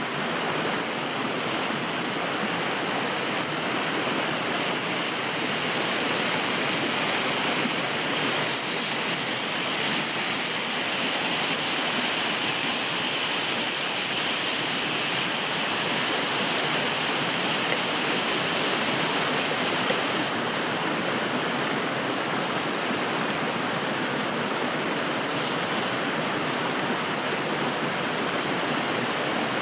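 A river flowing, a steady rushing of water with no break. Its tone shifts slightly about eight seconds in and again about twenty seconds in.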